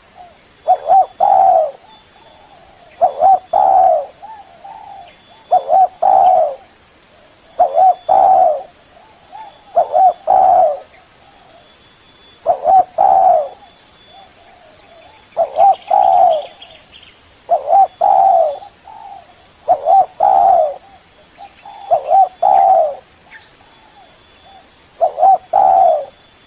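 Spotted dove (Spilopelia chinensis) cooing its call over and over, a loud phrase of a few coos repeated about every two to two and a half seconds.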